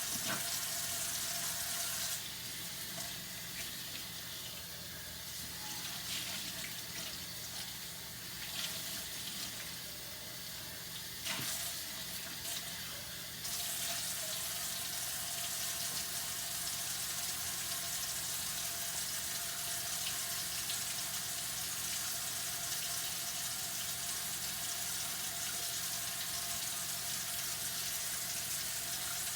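Kitchen tap running into a sink during dishwashing, as a steady rush of water. From about two seconds in, the flow goes quieter for about ten seconds, with a few light knocks, then runs full again.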